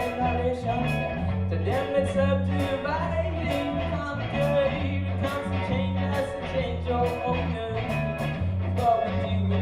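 Live band playing a reggae-style song, with bass, electric guitar and drums keeping a steady beat and a sung melody over it.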